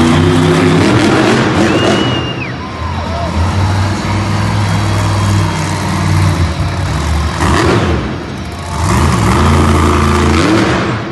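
Monster truck engines revving hard. The pitch climbs at the start and again about nine seconds in, with a brief dip just before.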